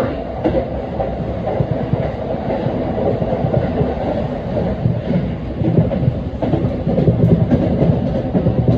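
JR Keiyo Line electric commuter train running along the track, heard from inside the passenger car: a steady rumble of wheels on rail with occasional faint clicks.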